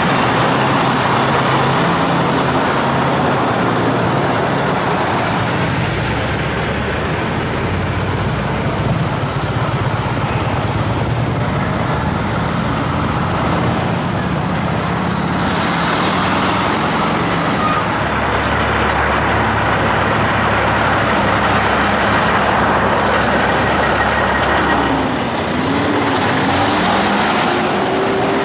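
Semi-trucks passing on a busy highway, one after another: diesel engines and tyre noise in a steady, loud traffic stream.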